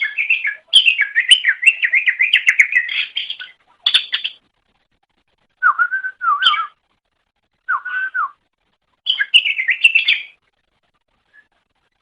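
Cucak ijo (green leafbird) singing in loud separate phrases: a long, fast, high warbling run, a short burst, two lower zigzagging phrases, then another fast warbling run.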